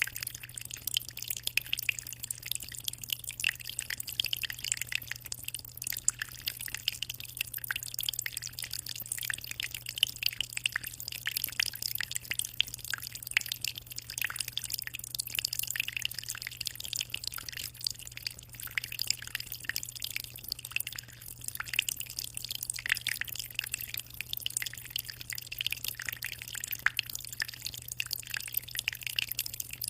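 Aquarium water trickling and splashing continuously in small, irregular drips and bubbles, over a steady low hum.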